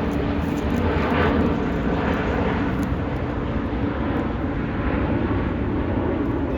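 Jet airliner's engines, a steady rumble with a faint steady tone in it.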